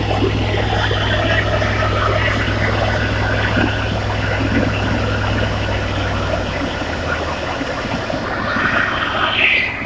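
Fire truck's engine-driven water pump running during a pump test: a steady low engine hum with a rushing noise over it. The low hum dies away about seven seconds in while the rushing noise continues.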